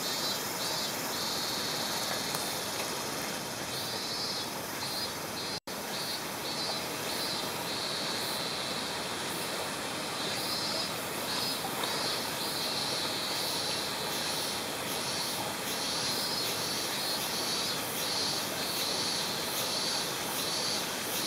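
Steady rush of a mountain stream's flowing water, with a high chirping that comes and goes in short repeated pulses over it.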